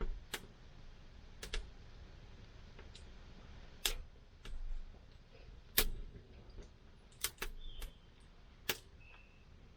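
Wood campfire crackling: about a dozen sharp, irregular pops and snaps over a faint steady hiss.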